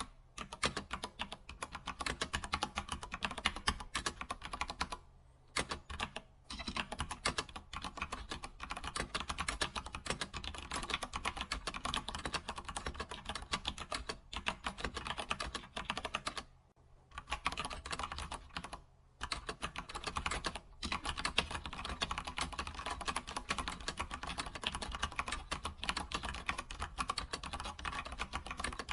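Continuous fast typing on a computer keyboard, a dense patter of key clicks with a few short pauses between runs.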